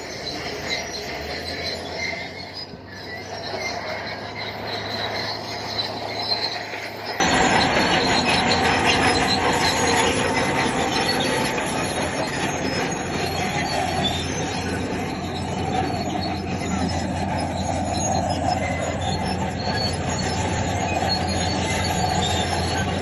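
Bulldozer working: a diesel engine running under steel crawler tracks that squeal and clank as it moves stone. The sound gets abruptly louder and denser about seven seconds in.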